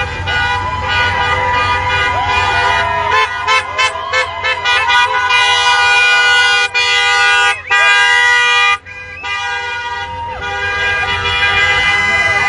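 Several vehicle horns honking together, overlapping steady tones. A quick run of short toots comes about a quarter of the way in, then long held blasts that cut off abruptly and start again.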